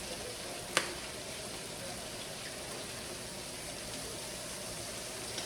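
Kitchen tap running steadily as hands are washed under it, with one sharp click a little under a second in.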